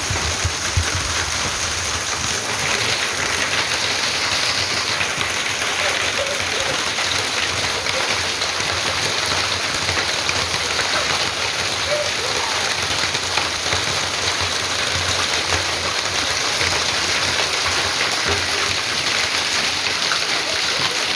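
Hail falling: a steady, dense rush of many small hailstone hits on surfaces.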